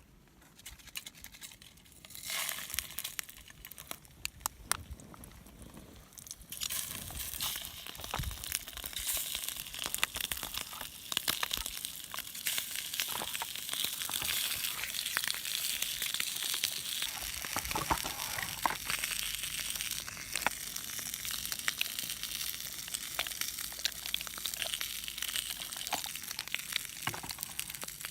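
Food frying in a pan over a small campfire stand, sizzling steadily with fine crackles; it starts suddenly about six seconds in. Before that, quieter crinkling and clicking from handling.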